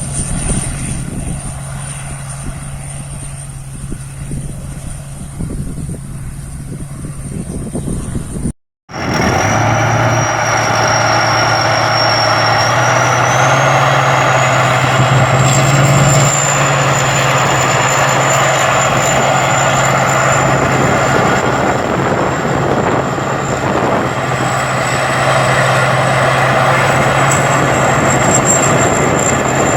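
Rice combine harvester running steadily as it harvests, a constant engine drone with a high thin whine above it. The sound cuts out abruptly for a moment about nine seconds in, then returns louder.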